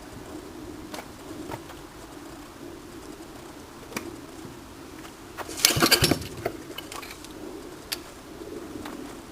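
A bird cooing again and again in soft low hoots. A short burst of clattering comes about six seconds in and is the loudest sound, with a few single clicks before and after it.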